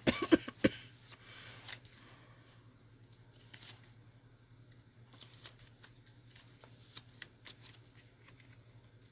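Paper pages of a small handmade journal being handled and turned: a few sharp rustles and taps in the first second, then faint scattered paper ticks.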